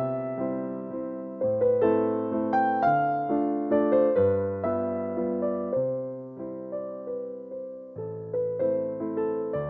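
Solo piano playing a gentle waltz in A minor as background music, each note struck and fading in a lilting rhythm.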